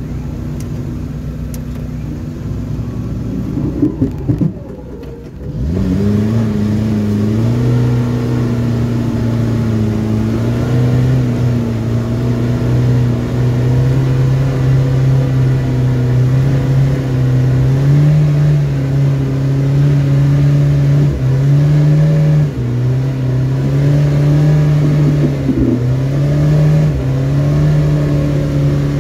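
Off-road 4x4's engine idling, then, after a brief dip about five seconds in, revving up and running under steady load. Its pitch wavers and steps up and down several times as the vehicle pulls through deep mud.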